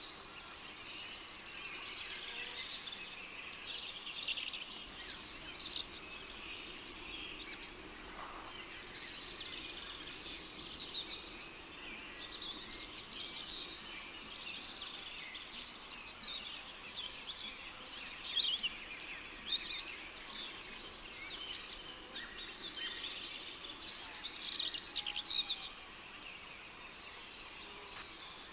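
Rainforest ambience: a cricket chirps a steady, rapid train of high-pitched pulses, dropping out briefly about three-quarters of the way through. Varied short bird calls sound over it.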